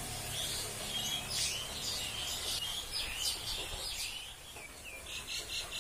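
Small birds chirping repeatedly in short high calls, ending in a quick trill near the end.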